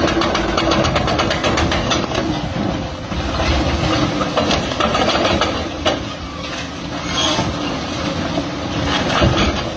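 Heavy demolition machinery running, its diesel engine working under load, with the knocking and clattering of a building being broken up throughout.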